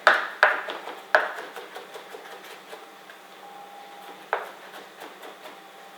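A knife chopping garlic finely on a chopping board. There are three sharp knocks in the first second or so, then lighter taps, and one more sharp knock past the four-second mark.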